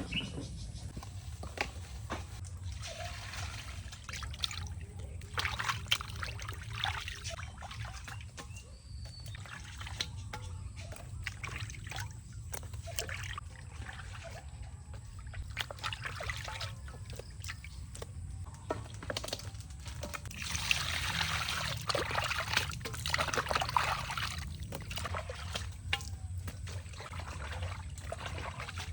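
Water trickling and pouring in several spells a few seconds long, the longest about two thirds of the way in, with scattered clicks and knocks.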